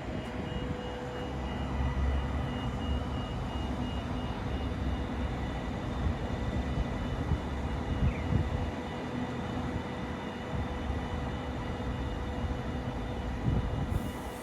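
Electric suburban train running with a steady low rumble and a constant hum from its equipment.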